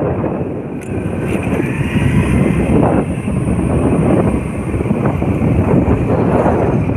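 Strong wind buffeting the microphone: a loud, rough, unsteady rumble with no clear tone.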